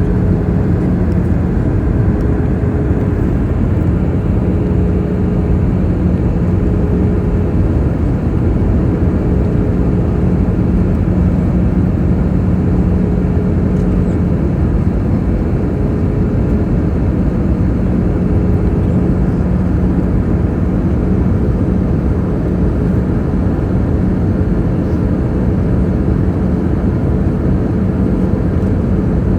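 Airbus jet airliner on approach to land: a steady rush of engine and airflow noise, with a low steady hum underneath.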